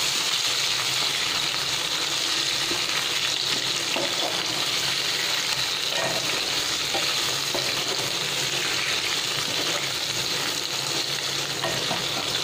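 Potato chunks and cumin seeds sizzling steadily in hot oil in a kadhai, with a spatula stirring and scraping through them now and then.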